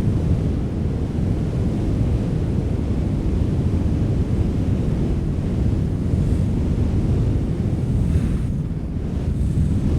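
Wind blowing steadily, a deep rushing noise at an even level.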